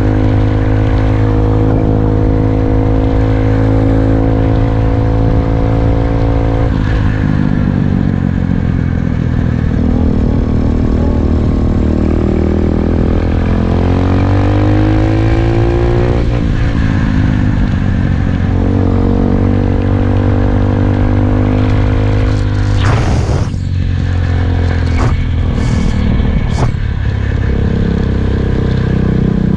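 SSR 125cc single-cylinder four-stroke dirt bike engine running while ridden, its revs rising and falling several times. A few sharp knocks or rattles come in the last seconds.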